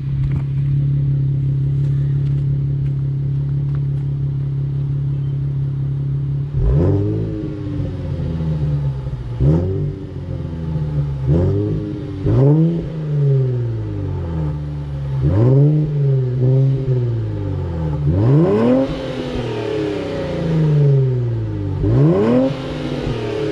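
Infiniti Q50's twin-turbo 3.0-litre V6 with a muffler delete, heard from behind the car at the exhaust. It idles steadily, then from about six seconds in it is blipped in neutral in a series of quick revs, each climbing sharply and falling back to idle.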